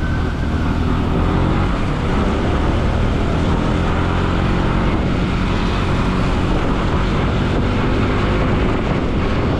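Bajaj Pulsar NS200 single-cylinder motorcycle engine running steadily while riding, with wind rushing over the microphone and tyre noise on the road.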